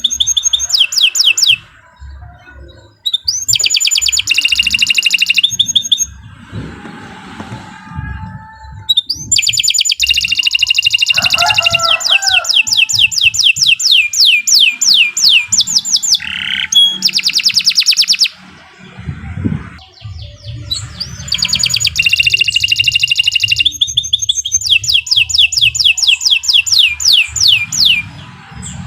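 Domestic canary singing long phrases of rapid high-pitched trills and rolling repeated notes, the phrases lasting from one to several seconds with short pauses between them.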